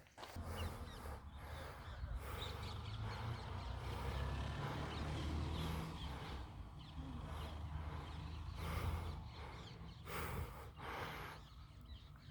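Birds chirping, with short calls scattered throughout over a steady low rumble.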